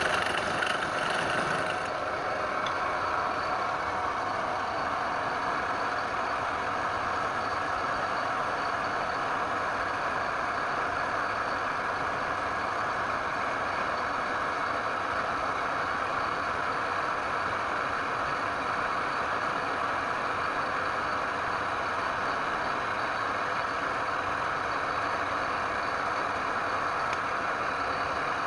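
Wood lathe running steadily, with a brighter, scratchier sound in the first couple of seconds that then settles into an even drone.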